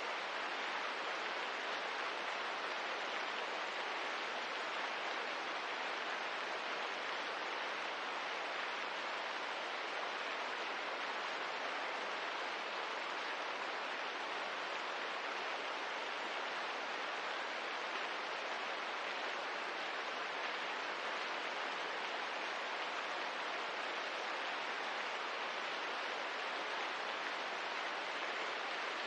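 Steady rain ambience: an even hiss that does not change, with no separate drops or crackles standing out.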